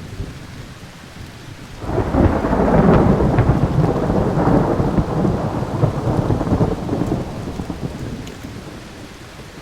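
Thunder: a roll of rumbling sets in suddenly about two seconds in, is loudest just after, and dies away slowly over several seconds, above a faint steady low rumble.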